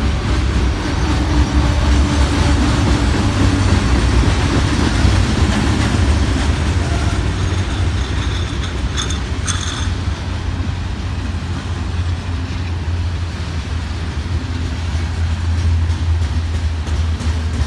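Freight train cars, mostly covered hoppers, rolling steadily past at close range: a continuous low rumble of steel wheels on rail. Two short high squeaks come about nine seconds in.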